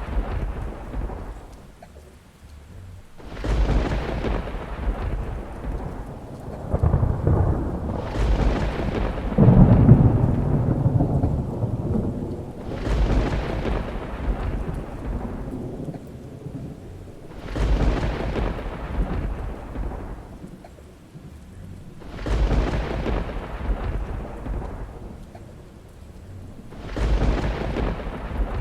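Thunder rolling over steady rain: a fresh peal breaks suddenly every four to five seconds and dies away, the heaviest about ten seconds in.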